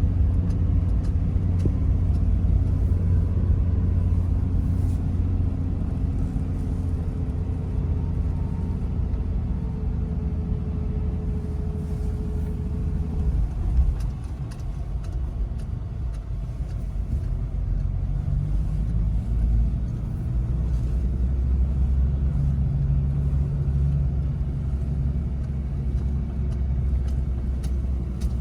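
Toyota Land Cruiser 70 on the move: a steady low drone of engine and road, with a faint whine that shifts in pitch. Partway through the sound eases briefly, then a stronger low engine note comes in as it pulls on.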